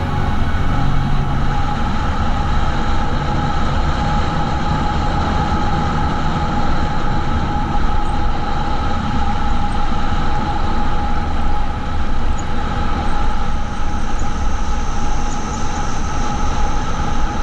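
Steady wind rush and a constant drone from a bike in motion, picked up by a GoPro camera mounted on the rider or bike, with heavy low rumble from wind on the microphone.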